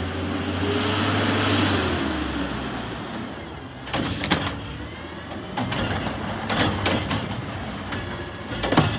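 Peterbilt 520 Heil recycling truck running, its engine noise swelling for the first two seconds and then dropping back, followed by a string of sharp clanks and knocks from about four seconds in.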